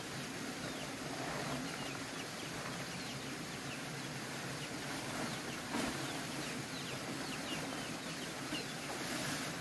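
A group of ducklings peeping: many short, falling chirps scattered throughout, over a steady background hiss. A brief knock about six seconds in.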